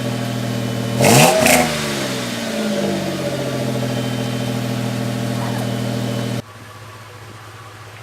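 Toyota 3.4-litre 5VZ-FE V6 idling through an exhaust with a Flowmaster 40 muffler and 4-inch pipe, given one quick throttle blip about a second in that rises and falls in pitch. The deep idle cuts off suddenly near the end.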